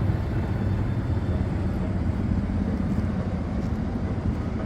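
Steady low rumble of a running vehicle engine, without change in pitch or level.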